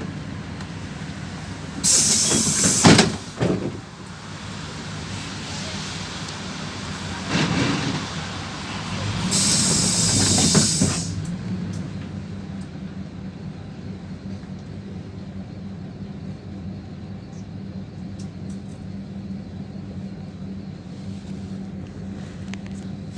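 PAZ-32054 bus engine running with a steady low hum, with two loud blasts of compressed air hissing, one about two seconds in and a longer, higher one near ten seconds.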